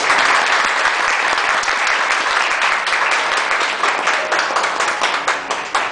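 A crowd of guests applauding, a dense clapping that thins out into separate claps near the end.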